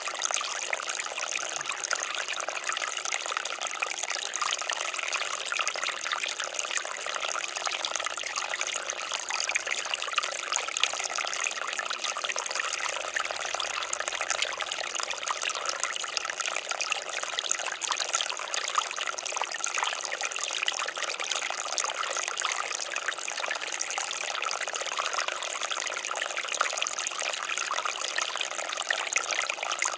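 Water fountain running steadily, water splashing and trickling.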